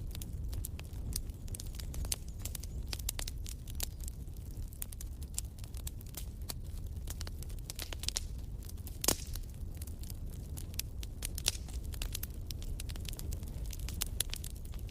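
Wood fire crackling in a fireplace: irregular sharp pops and snaps over a steady low rumble of the flames, with one louder pop about nine seconds in.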